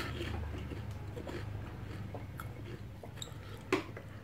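A person chewing cilok, chewy tapioca-flour balls in broth, with soft mouth sounds over a steady low hum. One sharp click comes about three-quarters through.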